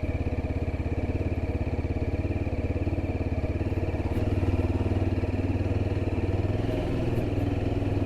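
Yezdi Adventure's single-cylinder engine running at low speed, a steady rapid train of firing pulses, growing slightly louder and deeper about halfway through.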